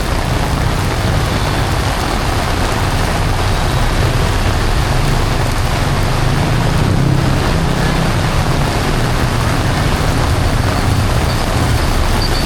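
Heavy rain pouring steadily, with the low rumble of traffic running underneath.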